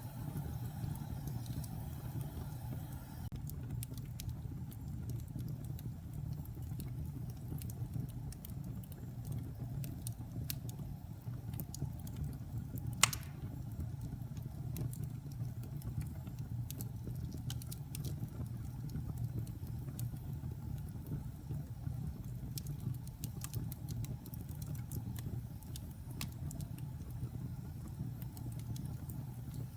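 Wood fire in a fireplace crackling: a steady low rumble of burning with scattered sharp crackles and pops, one much louder pop a little before halfway through.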